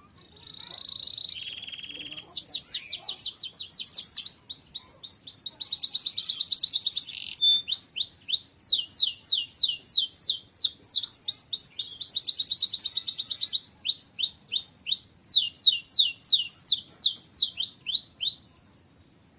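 Domestic canary singing one long song. It opens with a held whistle and a short buzz, then runs through a series of fast trills of rapidly repeated sweeping notes, each at a different speed and pitch, and stops shortly before the end.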